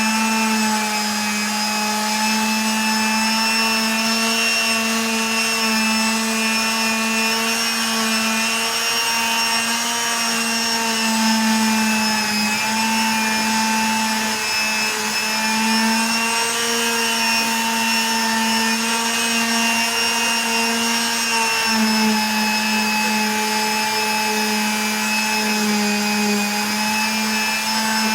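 Electric power tool motor running steadily with a whining hum, its pitch wavering and dipping briefly a few times as if loaded against the work.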